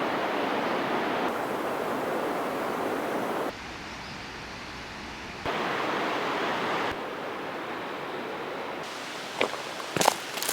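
Steady rushing noise of flowing river water, changing level abruptly several times as the shots change, with a few sharp clicks near the end.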